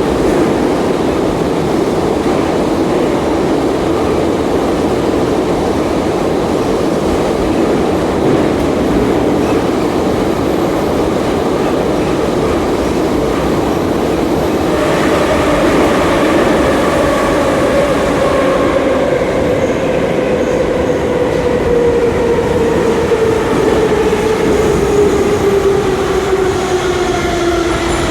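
Moscow Metro 81-717.5M "Nomernoy" car heard from inside while running through the tunnel: a steady loud rumble of wheels on rail. About halfway through, a traction-motor and gear whine sets in and falls steadily in pitch as the train slows.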